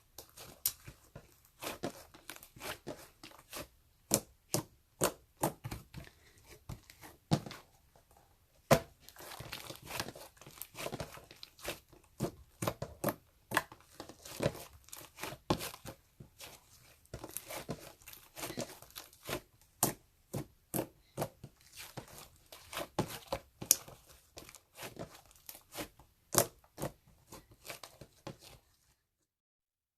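Wrapper or packaging crinkling and tearing in dense, irregular crackles and snaps, stopping suddenly about a second before the end.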